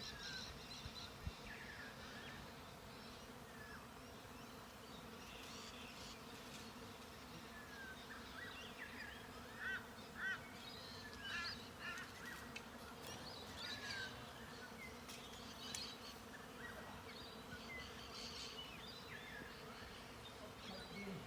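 Faint steady hum of a honeybee swarm, with short bird chirps and calls coming and going over it, most of them in the middle stretch.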